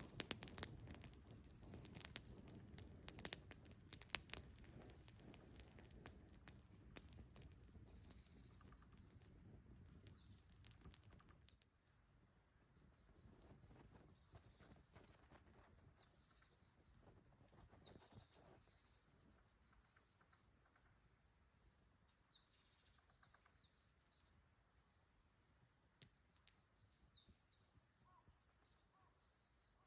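Faint outdoor ambience: a steady high chirring with small chirps from wildlife. Over the first ten seconds or so there are sharp clicks and pops over a low rumble, which then fade away.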